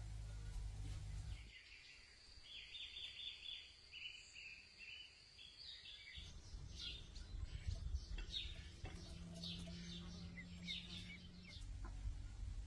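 Birds chirping, many short high notes repeated over several seconds, over a low rumble that drops away about a second and a half in and comes back about halfway through.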